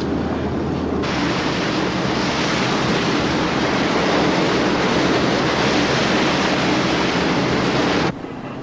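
Steady low hum of the patrol boat's engines, then about a second in a sudden switch to loud rushing water and spray as the boat's hull drives through the sea at speed; the rush stops abruptly near the end.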